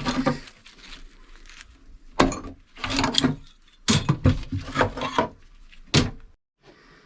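Knocks, thuds and clatter of gear being handled and moved about inside a small wooden sailboat's cabin, several sharp knocks in quick runs. The noise stops for a moment near the end.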